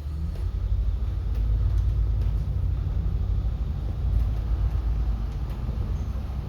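City bus on the move, heard from inside: a steady low rumble of engine and road noise.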